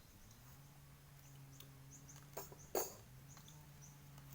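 Faint outdoor ambience: a low steady hum, short high chirps of birds, and two sharp clicks or knocks a little past the middle, the second the loudest.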